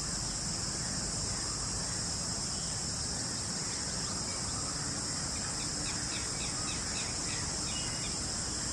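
Steady, high-pitched drone of insects such as crickets, with faint short bird chirps repeating in the second half.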